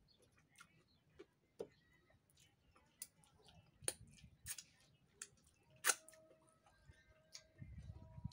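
Mouth sounds of a man chewing raw vegetables and licking his fingers: scattered crisp clicks and smacks, the sharpest about six seconds in.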